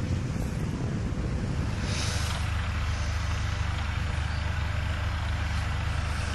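Steady low engine rumble with a haze of wind-like noise, and a brief hiss about two seconds in.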